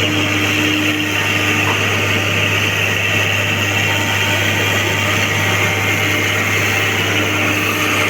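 Excavator's diesel engine running steadily, a constant loud machine drone with a low hum.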